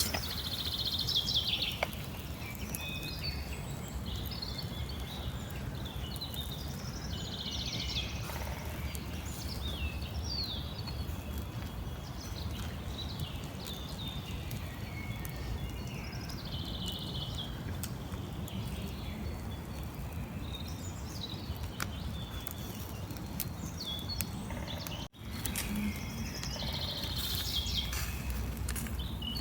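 Small birds chirping and singing, with many short calls and trills, over a steady low rumble of outdoor background noise. A brief sudden drop-out in the sound comes near the end.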